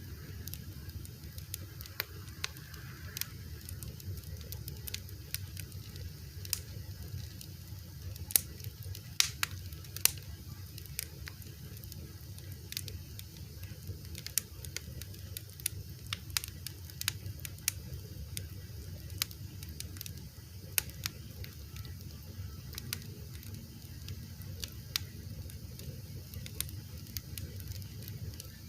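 Fire crackling: irregular sharp pops and snaps over a steady low rumble, with a few louder pops about a third of the way in.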